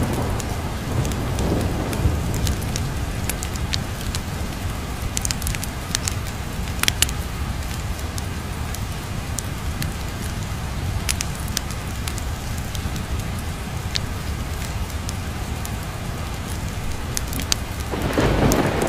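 Steady rain mixed with a fireplace crackling in scattered sharp pops over a constant low rumble. A roll of thunder fades out at the start and another builds up near the end.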